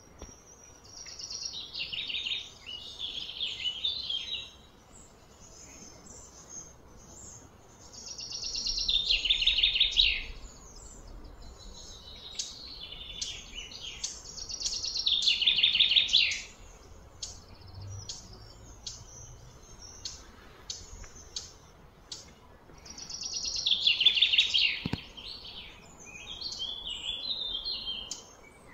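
Birdsong: a bird repeats a loud, fast-pulsed phrase that falls in pitch, about two seconds long, several times, with softer short chirps in between.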